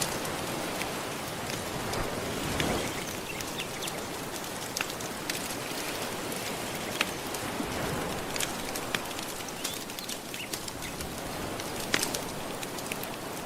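Wood fire crackling with frequent sharp pops over soft ocean waves washing ashore, the surf swelling about two and a half seconds in and again around eight seconds.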